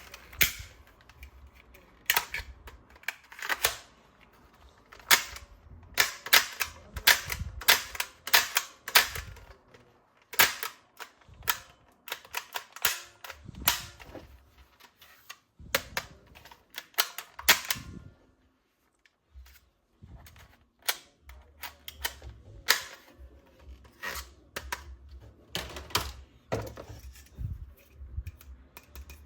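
Irregular sharp plastic clicks and snaps from toy guns and their parts being handled, fitted together or dry-fired, with a short quiet pause a little past the middle.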